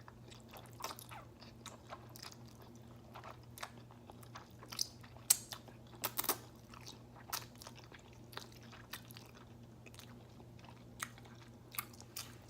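Close-miked chewing and slurping of spicy instant ramen noodles: irregular wet mouth clicks and smacks, a few sharper than the rest, over a faint steady hum.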